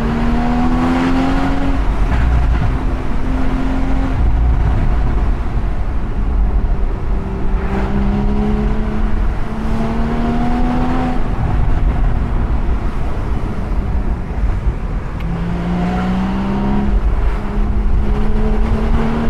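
Porsche 981 Boxster Spyder's naturally aspirated 3.8-litre flat-six with manual gearbox, heard from the open cockpit: the revs climb and drop back several times as it pulls and shifts, over a steady rush of wind and road noise.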